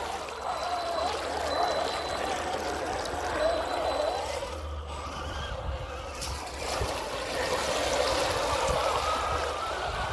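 Electric motors of radio-controlled trucks whining, the pitch wavering up and down with the throttle, over a low wind rumble.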